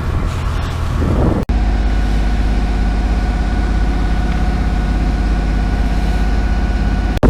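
Boat engine running steadily under way, a low, even drone with a faint steady whine above it. It is mixed with wind and water noise until an abrupt cut about a second and a half in.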